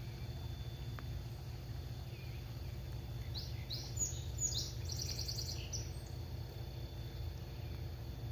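A bird singing: a few quick high notes, then a fast trill, over a steady low rumble of background noise.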